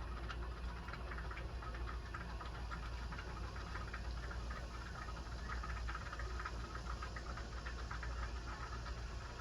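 Jeweler's soldering torch running steadily with a dense, fine crackle while a hollow 10-karat gold chain link is heated to flow solder into the break.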